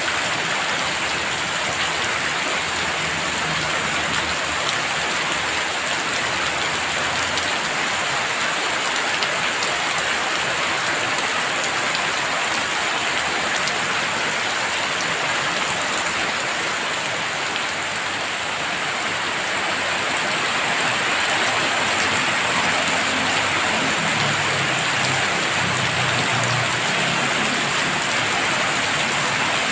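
Heavy rain falling steadily and densely, growing a little louder about two-thirds of the way through.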